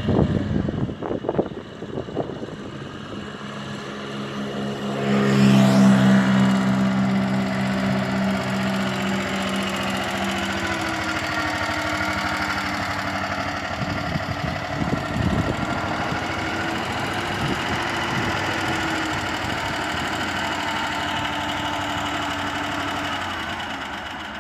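Moto Guzzi Ercole three-wheeled motocarro's 500 cc horizontal single-cylinder four-stroke engine running as the machine is ridden past, loudest about five or six seconds in, then pulling along at a steady pitch and fading near the end.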